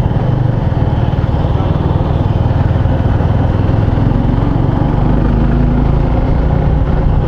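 Motorcycle engine running at steady revs while riding, with road and wind noise rushing over it.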